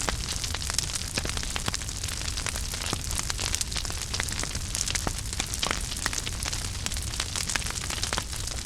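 Wood fire crackling and popping in a fireplace, with frequent small sharp snaps over a steady hiss and a low rumble of the flames.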